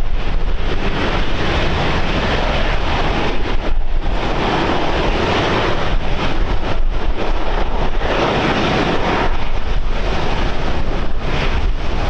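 Wind buffeting the microphone: a loud, rough rumble and rush that swells and eases in gusts every few seconds.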